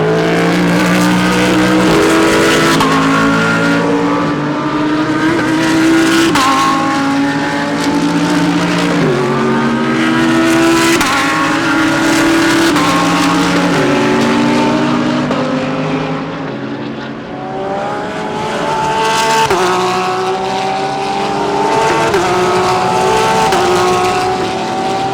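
Several GT3 race car engines accelerating past, each climbing in pitch and dropping back at every upshift, the cars overlapping one after another with a brief lull about two-thirds of the way through.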